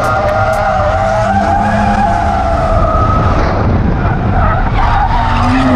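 A drift car sliding, its tyres squealing in a wavering pitch over the steady sound of its engine.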